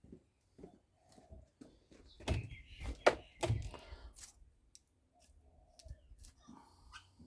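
Clunks, knocks and scraping of a screwdriver working on a microwave oven transformer. Scattered clicks, then a quick run of heavier knocks about two to four seconds in, then softer scraping.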